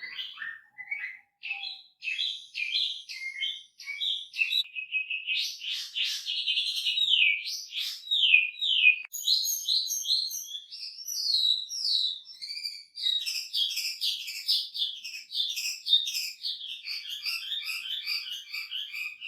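Chinese hwamei (wambi) singing a long, varied song of rapid repeated notes, trills and falling slurred whistles, with only brief pauses in the first couple of seconds. It is a chatty bird with a rich 'isian' fill of phrases copied from other birds.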